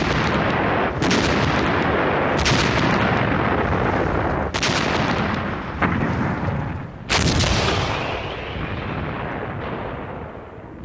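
Battle sound effects of artillery fire: about six heavy blasts a second or two apart, each trailing off into a long rumble. The rumble fades over the last few seconds.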